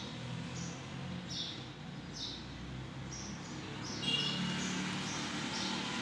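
A small bird chirping over and over, one short high chirp about every three-quarters of a second, over a faint low hum.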